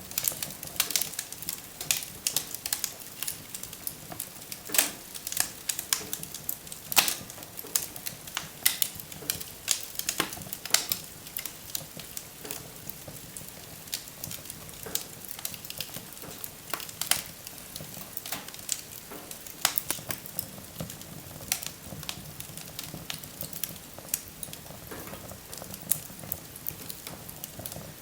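Wood fire crackling in a fireplace: irregular sharp pops and snaps, several a second, over a low steady hiss of burning.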